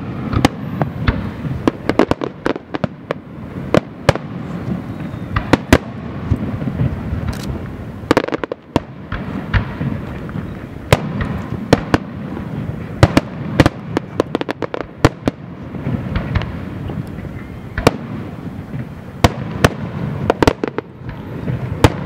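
Aerial fireworks display: shells bursting in a rapid, irregular string of sharp bangs, coming in dense clusters of several a second with short lulls between, over a steady low rumble.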